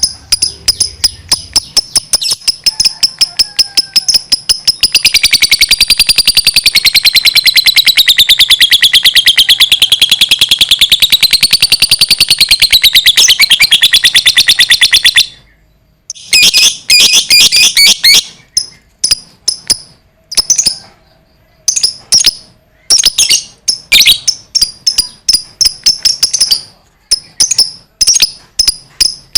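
Lovebird's long ngekek chatter: a rapid string of sharp, high chirps wavering in pitch, running unbroken for about ten seconds before stopping abruptly. It then resumes as shorter rapid bursts with brief pauses between them.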